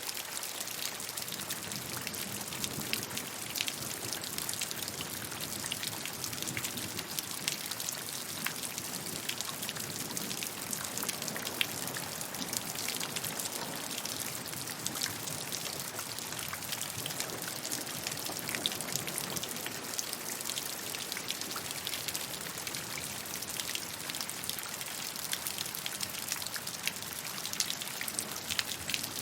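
Steady rainfall, with a dense patter of individual drops hitting a surface.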